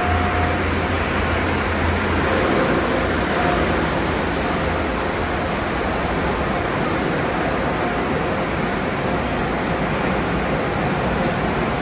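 Steady rushing noise of car wash tunnel equipment running, with a faint low hum and a few faint steady tones underneath.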